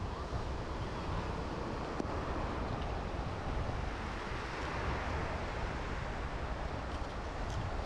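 Strong wind buffeting the microphone with a steady low rumble, over the wash of surf.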